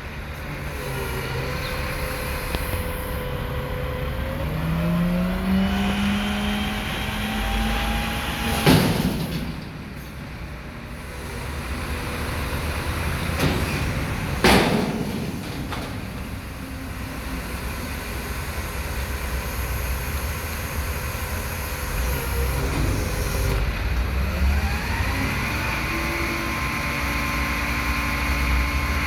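Mack front-loader garbage truck with a Heil body working its hydraulic arms: the diesel engine revs up to drive the hydraulic pump as the forks lift a recycling dumpster, then two loud bangs about six seconds apart as the dumpster is banged to empty it into the hopper, and the engine revs up again near the end as the arms move.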